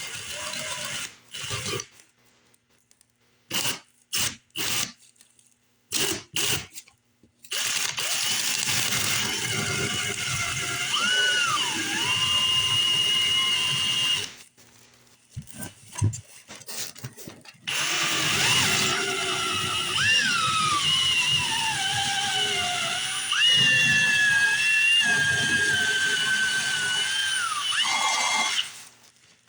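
Electric drill boring drain holes: a few short bursts, then two long runs in which the motor's whine drops in pitch as the bit bites and rises again when it frees.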